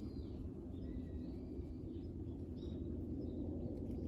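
Faint birds chirping in short arched calls, over a steady low rumble of outdoor ambience.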